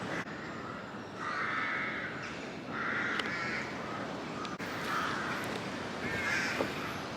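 Crow cawing: four or five harsh, raspy caws at uneven intervals.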